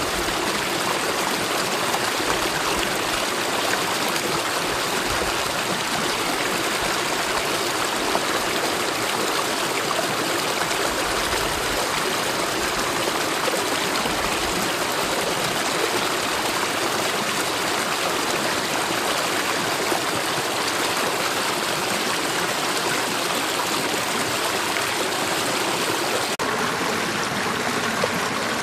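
Mountain valley stream flowing steadily, an even rush of water without pause.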